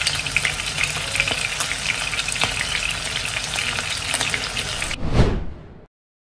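Chicken breasts sizzling and crackling as they pan-fry in oil, with many small pops. About five seconds in, a single falling whoosh sound effect.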